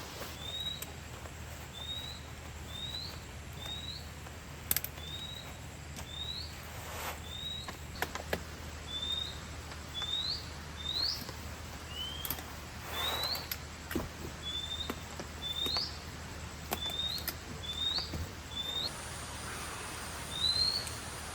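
Short rising chirps from a small calling animal, repeated about once a second. A few sharp knocks and rustles come in between.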